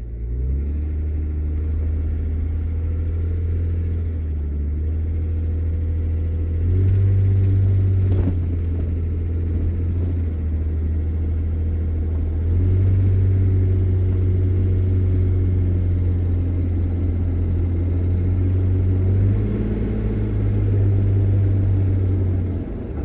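Vehicle engine heard from inside the cab while driving: a loud, steady low drone whose pitch steps up and down a few times as the engine speed changes, with a single sharp click about eight seconds in.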